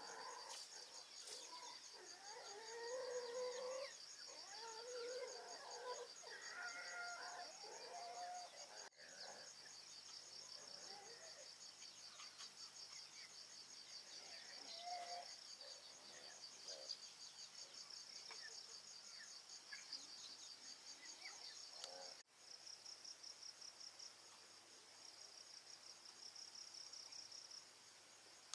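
Crickets chirping in a faint, steady, fast-pulsing trill. Other animal calls rise and fall over it during the first several seconds.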